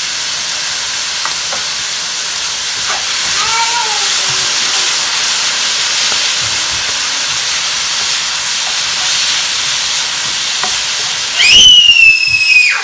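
Stir-fried noodles and meat sizzling in a pan with stir-fry sauce just added, with stirring. Near the end a loud high-pitched squeal rises sharply and holds for about a second over the sizzle.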